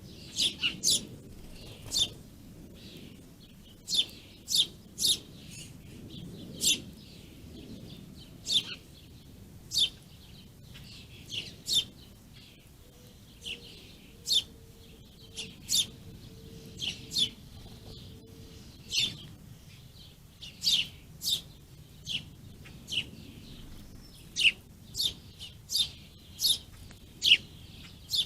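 Small songbirds chirping: many short, sharp chirps at irregular intervals, some in quick pairs or runs, over a faint low background rumble.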